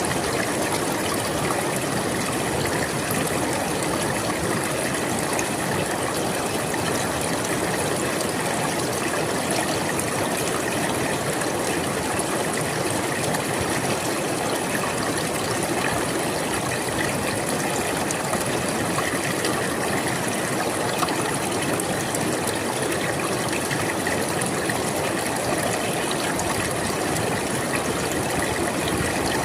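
River water flowing over rocks: a steady, unbroken rushing and splashing.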